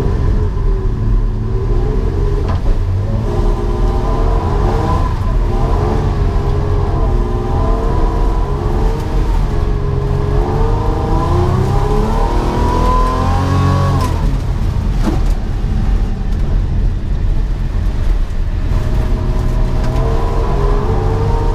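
Holden VS Commodore engine revving hard during an autocross run, its pitch rising and falling again and again as the driver accelerates and lifts. Near the two-thirds mark it climbs to its highest point and then drops suddenly. A heavy low rumble runs underneath throughout.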